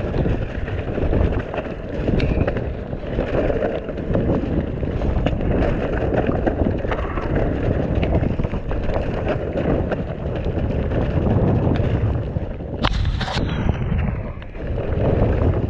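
Mountain bike riding fast down a wet, muddy trail: wind buffeting the mic over tyres in mud and a steady clatter of small knocks and rattles from the bike. A short, loud hiss-like burst about 13 seconds in.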